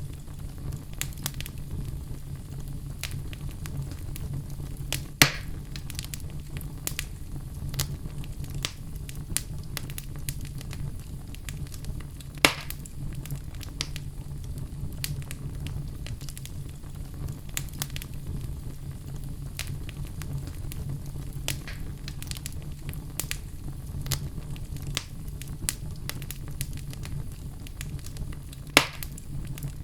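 Fire crackling in a fireplace: a steady low rumble under frequent small snaps, with three louder pops, about five seconds in, near the middle and near the end.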